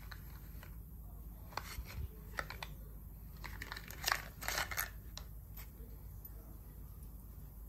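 A few short metallic clicks and light scrapes of hand tools and small parts being handled, the loudest cluster about four to five seconds in, over a low steady background hum.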